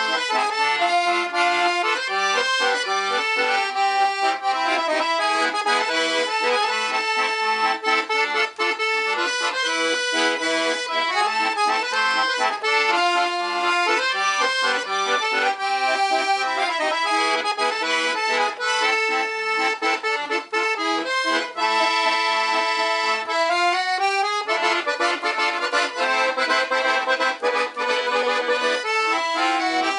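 Black Parrot piano accordion, with three sets of treble reeds (low and two middle), playing a tune with melody and chords. Near the end a quick upward run leads into a fuller, denser passage.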